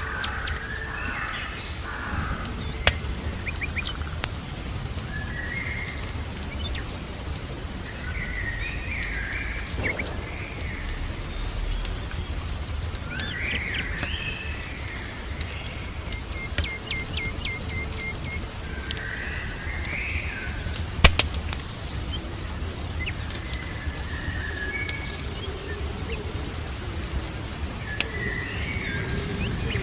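Songbirds calling and chirping on and off, including a fast even trill of about a dozen notes around the middle. Under them runs a steady low rumble, broken by scattered sharp crackles and pops of a wood fire; the loudest pop comes about two-thirds through.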